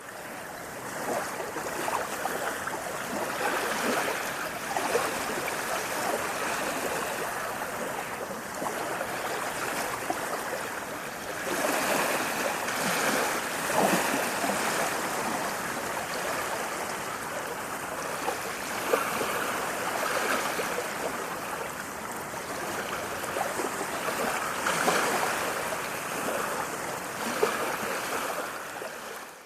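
Continuous rushing and babbling of flowing water, with a fine splashy crackle. It swells louder a few times, about twelve, nineteen and twenty-five seconds in.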